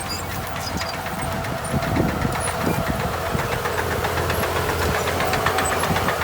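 Heavy diesel earthmoving machinery running: a steady low engine drone with rapid metallic clatter, growing louder about two seconds in.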